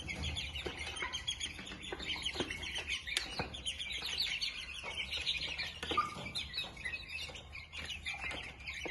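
A group of young chickens (pullets) cheeping and chirping, many short overlapping calls at once, with a few light knocks.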